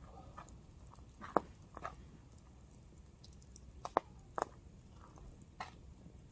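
Burning firewood crackling: irregular sharp pops and snaps, about half a dozen in a few seconds, the loudest about a second and a half in, over a low steady rumble.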